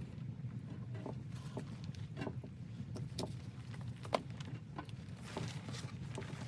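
Footsteps crunching through deep snow, one every half second to a second, over a steady low rumble.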